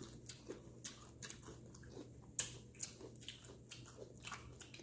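Close-up mouth sounds of chewing crunchy hot-Cheeto-crusted fried frog legs: faint, irregular crisp crunches and clicks, a few a second.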